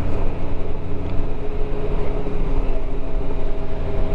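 Motorcycle underway at cruising speed: a steady engine and road hum, with a few steady tones running through it and another joining about three seconds in.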